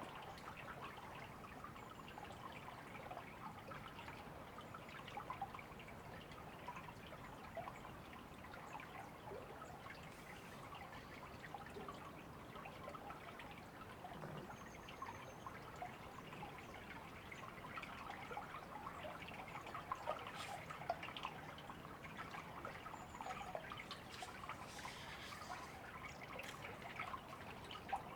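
A small river or stream trickling and babbling steadily, with a few brief, faint high bird chirps about halfway through and again near the end.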